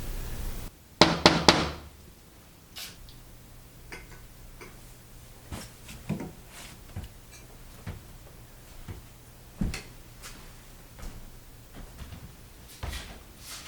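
A brief clatter of sharp knocks about a second in, then scattered light taps and clicks.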